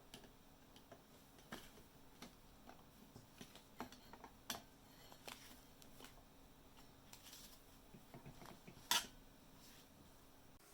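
Light, scattered clicks and clinks of small metal parts and hand tools being handled on a workbench, with one sharper clink near the end.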